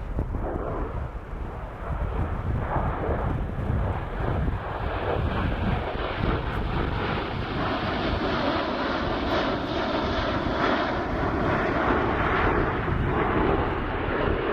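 Jet engine noise from USAF Thunderbirds F-16 fighter jets: a steady rumble that builds from about four seconds in and stays loud to the end.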